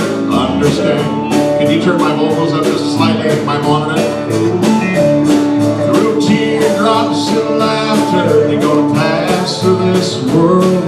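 Live country dance band playing: electric guitars, bass and drums keeping a steady beat, with a man singing over them.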